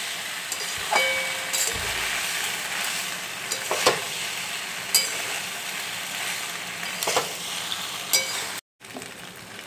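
Macaroni and vegetables sizzling over low flame in a steel kadai while a metal spoon stirs and scrapes through them, with a sharp clink of metal on the pan every second or two. The sound cuts out for a moment near the end.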